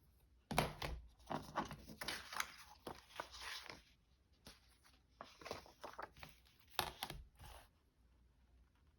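Sheets of paper being handled at a craft desk: rustling and scraping in three bursts, the longest lasting about two and a half seconds.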